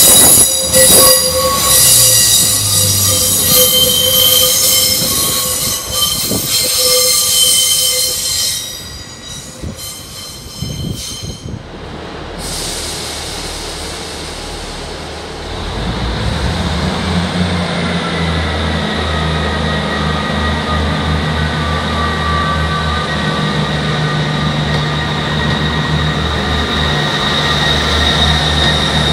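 Class 144 Pacer's wheels squealing loudly in several high-pitched tones on the curved platform track, fading about nine seconds in. After a break, a Class 158 diesel multiple unit's underfloor diesel engine runs steadily, a whine sounding above it.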